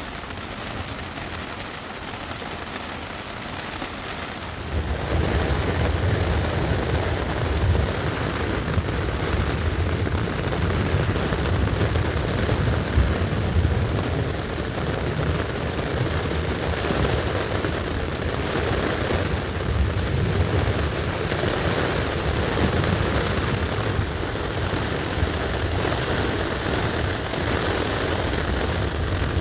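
Steady rain, growing heavier about five seconds in, with a low rumble underneath.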